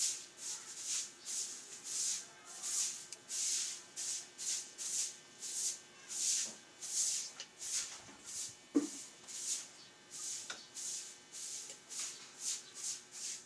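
Chewing and mouth sounds of someone eating a rice meal: soft wet smacks about twice a second, with a couple of light clicks from a spoon or plate.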